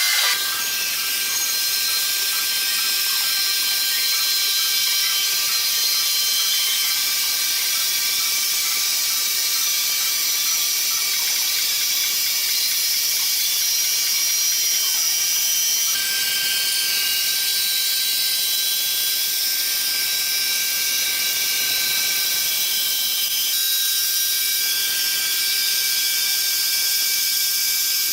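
Sawmill machinery running steadily: a continuous hiss with a high, steady whine that shifts slightly in pitch about halfway through.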